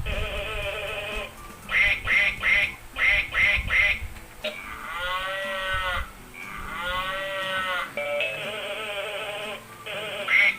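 Recorded animal sound effects from the memory game: clusters of quick duck quacks, then two drawn-out calls that rise and fall in pitch, then more quacks near the end.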